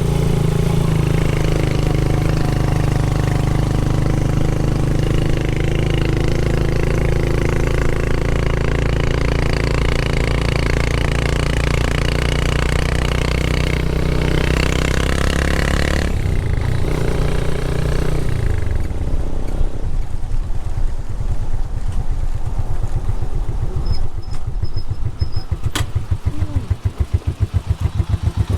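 Motorcycle engine running at a steady note, which changes about sixteen seconds in and then gives way to a rapid low pulsing for the rest of the time.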